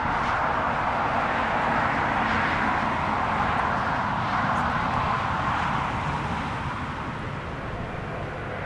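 Turboprop airliner's engines and propellers, a steady rushing drone that slowly fades over the last few seconds as the aircraft moves away.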